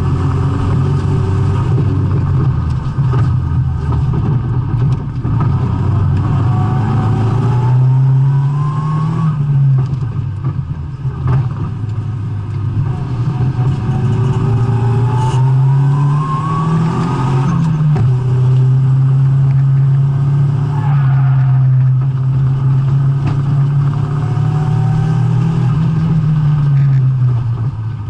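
Nissan S14 200SX drift car's engine pulling hard around the track, its pitch climbing under acceleration and dropping back at shifts or lifts about nine and seventeen seconds in. It then holds high revs for several seconds before falling away near the end.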